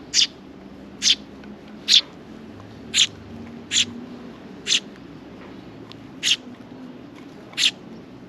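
A sparrow chirping: eight short, sharp, high chirps, repeated roughly once a second at an uneven pace.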